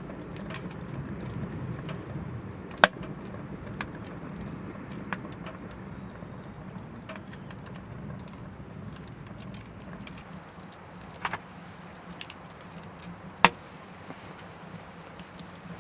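Oak firewood crackling in an Anevay Frontier Stove Plus wood-burning stove: scattered small ticks over a low steady rumble of the fire, with two sharp louder pops, about three seconds in and again about thirteen seconds in.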